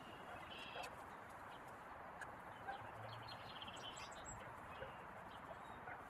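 Faint outdoor ambience with distant birds chirping now and then, in short high calls about half a second in and again around three to four seconds in.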